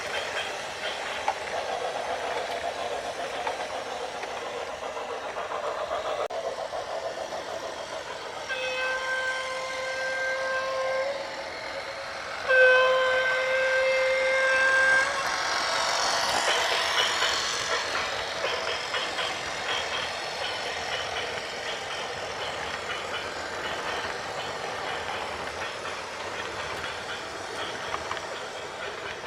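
A horn blown twice in long blasts of about two and a half seconds each, the second louder, over steady vehicle noise that swells briefly just after.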